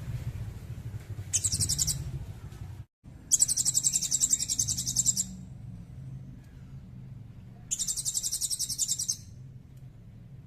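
Recorded bird song played as a mastering track: three bursts of rapid, evenly pulsed high-pitched trills, the middle one the longest, over a low hum. The recording drops out briefly between the first and second bursts.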